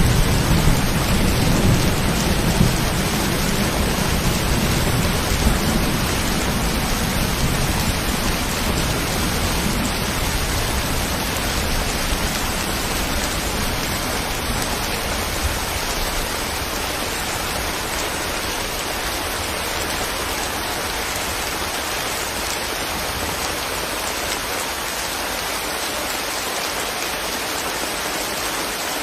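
Steady rain, with a low rumble underneath that fades out over the first ten seconds or so.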